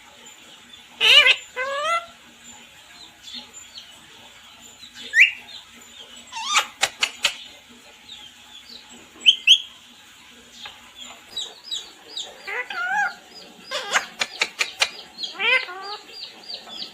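Parrot chirping and squawking: short, scattered calls, many sliding up or down in pitch, with a few quick runs of sharp clicks in between.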